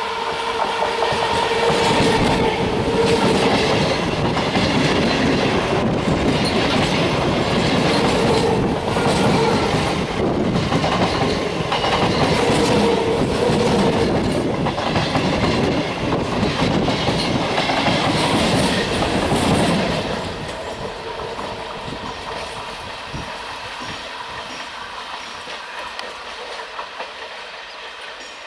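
Indian Railways EMU local electric train passing close at speed, its wheels clattering rhythmically over rail joints under a steady hum. The sound drops off sharply about twenty seconds in as the last coach goes by, leaving a quieter rumble.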